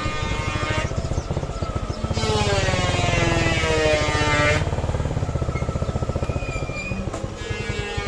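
Suzuki Gixer SF's single-cylinder engine running, a fast low pulsing throughout, with a louder engine note that falls in pitch from about two to four and a half seconds in.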